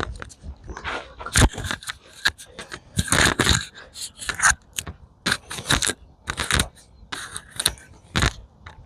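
Irregular rustling and scraping: a string of short crackling handling noises.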